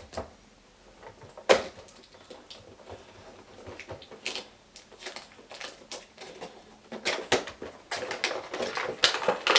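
Action-figure window-box packaging of cardboard and plastic being handled and opened: scattered taps and rustles, a sharp knock about a second and a half in, and a busy run of crinkling and clicking near the end.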